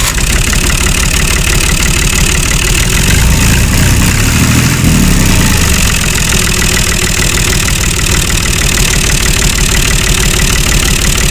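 Small engine of a homemade mini tractor running steadily, with a fast, even rattling beat.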